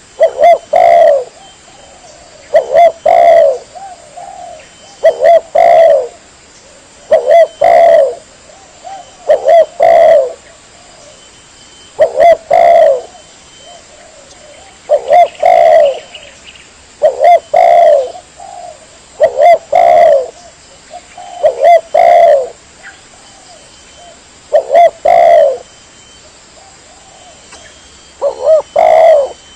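Spotted dove (tekukur) cooing: a phrase of a few low notes repeated about every two seconds, about a dozen times, with a longer pause near the end. This is a bird-lure call, a dove calling to draw others in.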